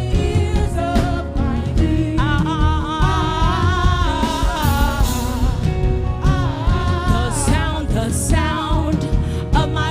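Gospel worship music: a singer's voice gliding and sustaining long notes over a full band with drums and sustained keyboard chords.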